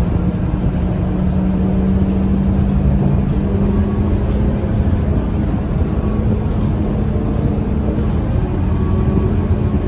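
Scania K230UB city bus engine and drivetrain running steadily, with a constant low hum and rumble.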